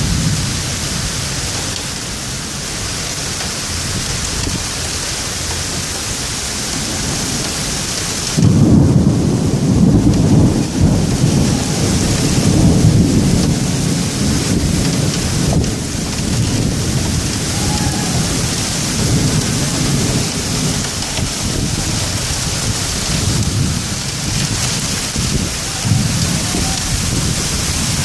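Thunderstorm: heavy rain falling steadily, with a loud thunderclap breaking in about eight seconds in and rumbling on for several seconds before dying down to fainter rumbles.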